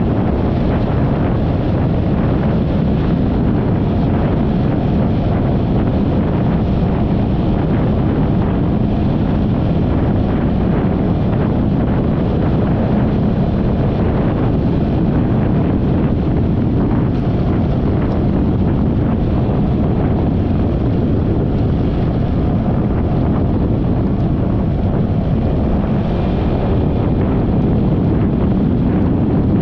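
Steady wind rush on the camera microphone of a Yamaha XMAX 300 scooter riding at speed.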